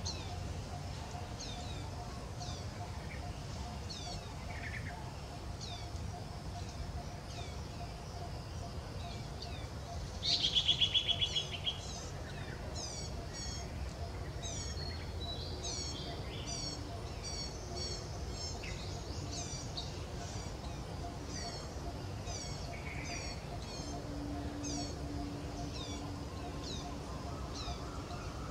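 Small birds chirping over and over in short, falling high notes. A louder burst of rapid high calls comes about ten seconds in. A steady low background rumble runs underneath.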